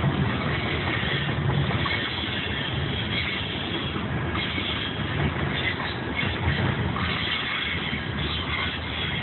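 Freight train rolling past, a steady rumbling noise that holds at an even level throughout.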